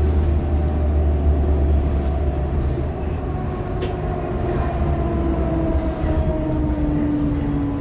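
Inside a Nova LFSA HEV articulated hybrid bus with a Cummins ISL9 diesel and an Allison H50 EP hybrid drive. A low engine rumble eases about three seconds in, while a whine from the drive falls slowly in pitch throughout.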